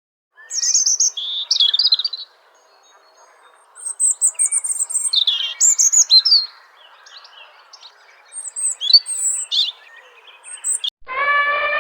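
Songbird chirping and trilling in short, high phrases separated by pauses. Near the end a loud, steady, horn-like call with a stack of tones starts abruptly.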